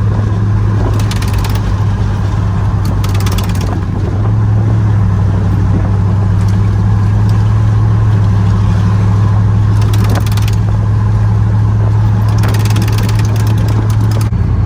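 Pickup truck driving, heard from inside the cab: a steady low engine-and-road drone with several short bursts of hiss.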